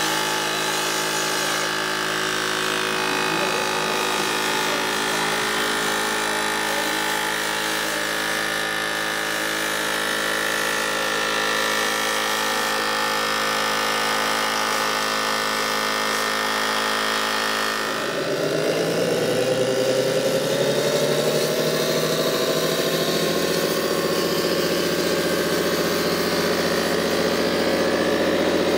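A machine running steadily, its sound made of several held tones; about two-thirds of the way through it changes abruptly and grows a little louder.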